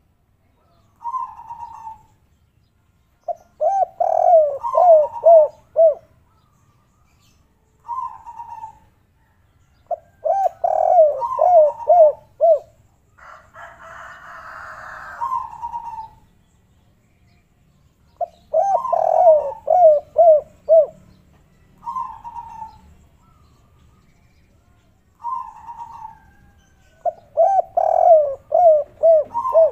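Spotted doves (tekukur) singing the kuk-3 song: short single coos and phrases that end in a quick run of about five or six notes, repeated every seven to eight seconds. A short burst of hissing noise lasts about two seconds near the middle.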